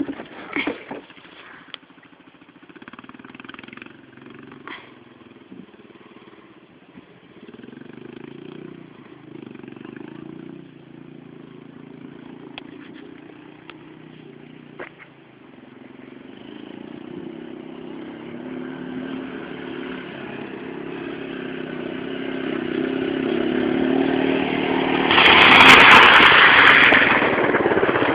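A motorcycle engine running at a distance, its pitch rising and falling, then growing steadily louder as the bike approaches and passing close by with a loud rush of engine noise a few seconds before the end, easing off afterwards.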